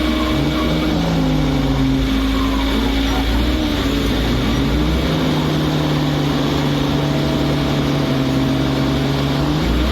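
Heavy truck's diesel engine running, its pitch stepping up and down a few times as the revs change.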